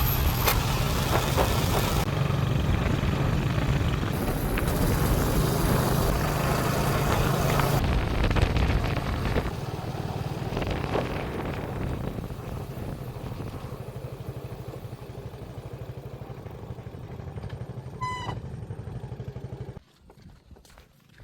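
An engine running with wind noise on the microphone, loud for the first eight seconds and then gradually fading. A brief pitched tone sounds near the end, and then the sound drops suddenly to quiet.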